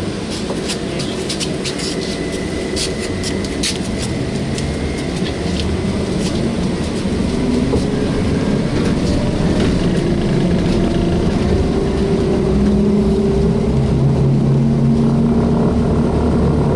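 Inside a moving VMZ-5298.01 trolleybus: a run of irregular sharp clicks and rattles in the first few seconds, then a whine that rises in pitch again and again as the trolleybus picks up speed, growing louder toward the end.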